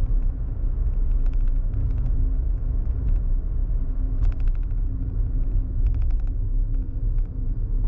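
Low, steady road and engine rumble inside a moving car's cabin, broken by a few short clusters of quick clicks: about a second and a half in, around four seconds and around six seconds.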